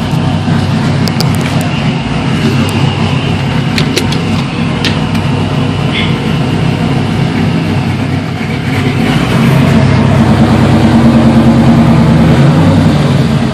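1998 Chevrolet Camaro Z28's V8 engine running as the car drives off, getting louder about nine seconds in as it pulls harder, then easing off just before the end.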